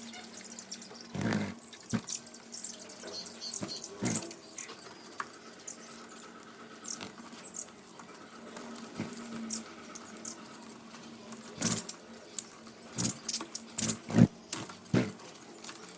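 Lovebirds feeding: irregular sharp clicks and taps of beaks on seed and cage, with short faint high squeaks. A low steady hum runs underneath and drops out about ten seconds in.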